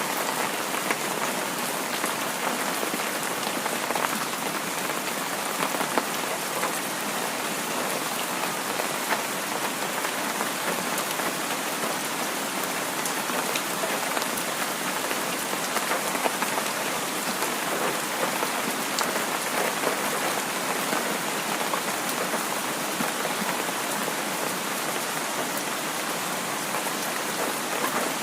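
Heavy rain falling steadily, a dense even hiss with the small ticks of individual drops striking a surface.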